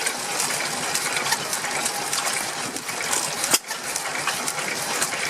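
Vintage stationary engine running, its valve gear and moving parts making a steady, rapid mechanical clatter.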